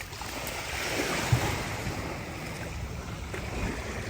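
Sea waves washing onto the beach, swelling about a second in, with wind rumbling on the microphone and a brief low bump.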